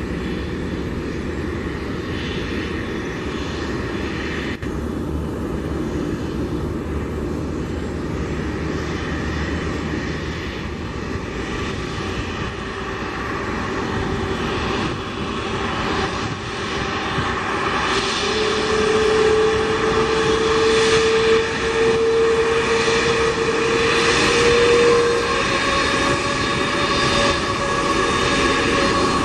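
Jet engines of an Airbus A330-243F freighter, Rolls-Royce Trent 700s, running as the aircraft taxis. The sound grows louder over the second half, and a steady whine comes in past the middle.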